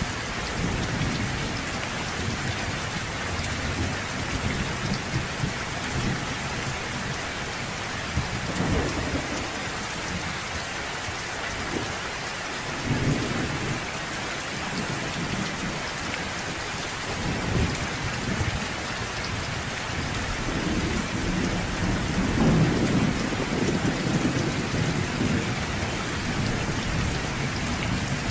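Steady rain falling with a continuous hiss, under rolling thunder: low rumbles swell and fade several times, the loudest near the end.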